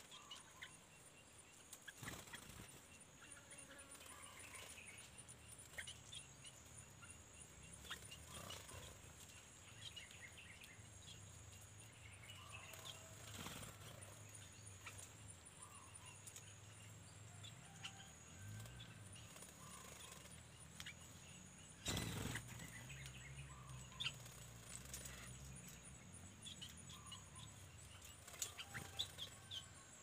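Faint natural ambience: scattered short bird chirps over a steady, high, thin insect buzz. A single knock about two-thirds of the way through is the loudest sound, with a few light clicks near the end.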